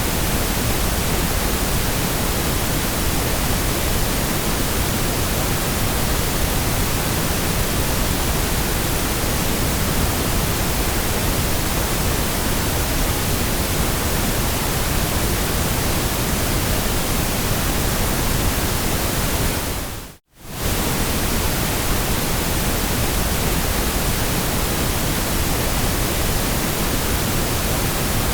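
Steady synthetic noise of a sleep track, an even hiss across all pitches. About twenty seconds in it fades out to near silence for a fraction of a second and comes straight back.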